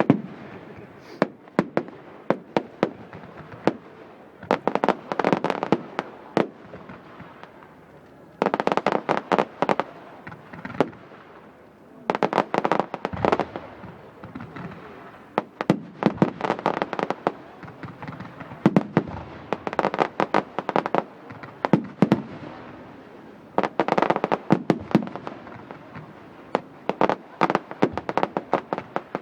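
Fireworks going off in a display: sharp bangs and crackling that come in quick volleys, a fresh cluster every three or four seconds.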